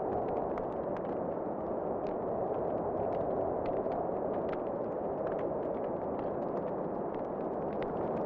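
Wood fire crackling in a fireplace: scattered sharp snaps and pops over a steady rushing noise.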